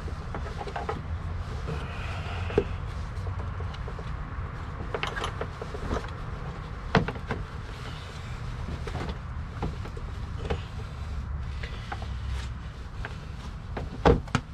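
Hands working a new panel air filter into a Subaru BRZ's plastic airbox: scattered rubbing and scraping of the filter against the housing, with a few sharp plastic knocks, the loudest two near the end. A steady low rumble runs underneath.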